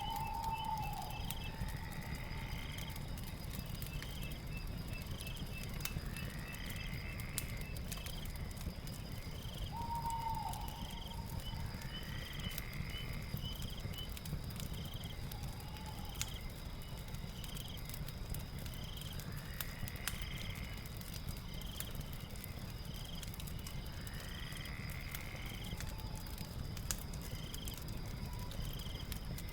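Night ambience: a steady high insect trill with short chirps repeating about once a second and a rising call every few seconds. Under it, a crackling fire gives scattered sharp clicks over a constant low rumble.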